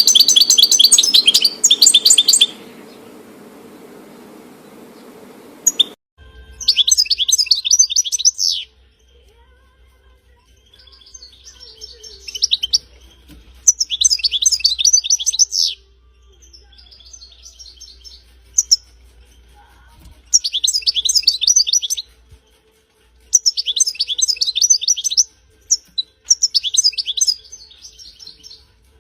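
European goldfinch singing: fast, high twittering phrases in bursts of about two seconds, repeated every few seconds, some louder and some fainter. A steady low hum sits beneath; its character changes abruptly about six seconds in.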